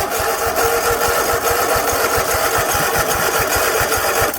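Cub Cadet zero-turn mower engine being cranked by its electric starter: a steady starter whine with rapid, even compression thumps for about four seconds, then it cuts off suddenly without the engine catching.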